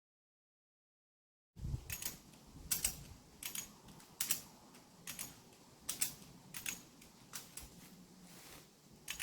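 Irregular sharp clicks, roughly one to two a second, starting after a second and a half of silence.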